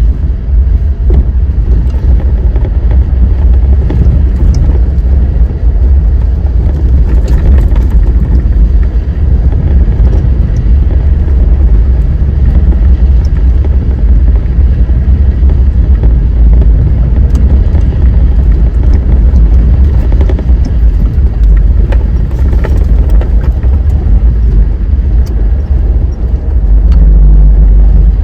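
Wind buffeting the microphone as a loud, steady low rumble, with a few faint clicks scattered through it.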